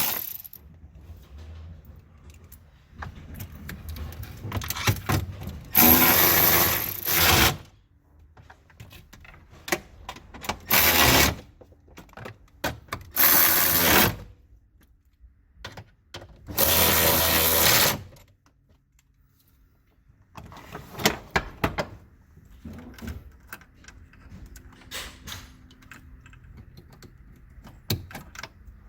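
Handheld power tool run in about five short bursts of one to two seconds each, loosening or driving fasteners during high-voltage battery pack removal, with clicks and handling noise of tools and parts between the bursts.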